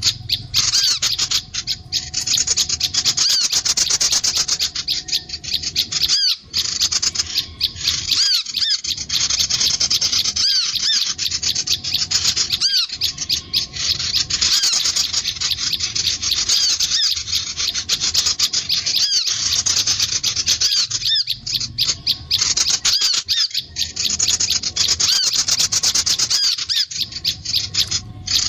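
Sunbirds and prinias calling: a continuous, fast chatter of high, sharp notes with short trills.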